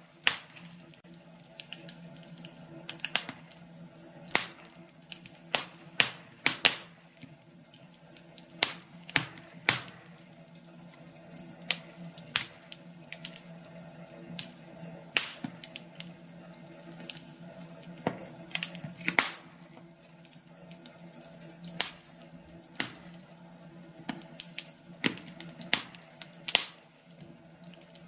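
Wood fire crackling, with sharp irregular pops and snaps from the burning logs, a few each second at uneven spacing, over a faint steady hum.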